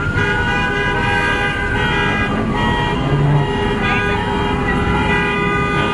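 Several car horns held down and honking together, their steady tones overlapping, over a low rumble of idling engines and crowd noise.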